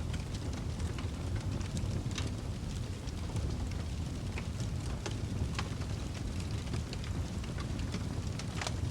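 Wood fire burning in a fireplace: a steady low roar of flames with frequent irregular crackles and sharp pops.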